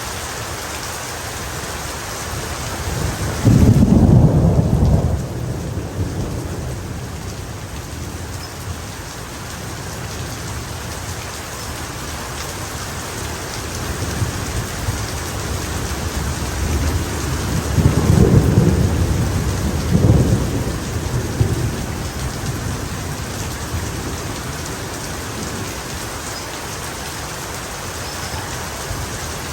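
Steady heavy rain falling, with thunder rumbling twice: a roll a few seconds in and a longer, double-peaked roll a little past the middle.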